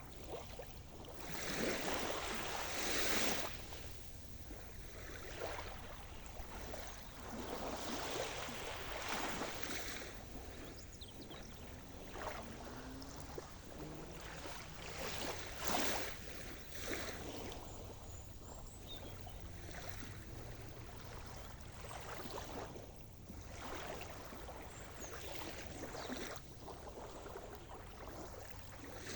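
Sea surf: waves breaking and washing onto the shore in irregular swells every few seconds, with steady water noise between them.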